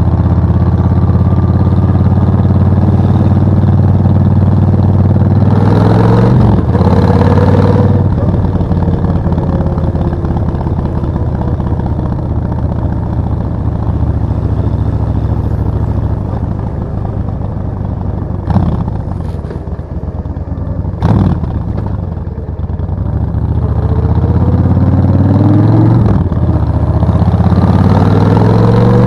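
Suzuki VS1400 Intruder's V-twin engine under way, pulling up through the gears: the engine note rises, drops with a shift about six seconds in, and rises again near the end. In the middle it runs quieter and lower, off the throttle, with a couple of short sharp knocks.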